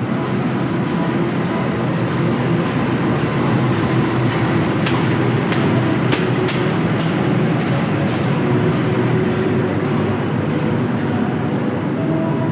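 Train running past, a steady heavy rumble of wheels on rails, with a quick run of sharp clicks about five seconds in as the wheels cross rail joints.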